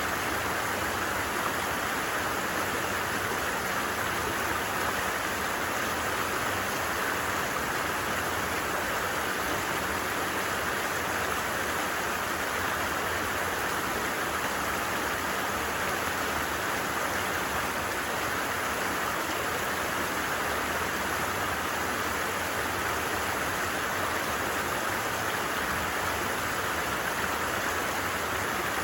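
A stream running steadily: an even rush of water with no breaks or changes.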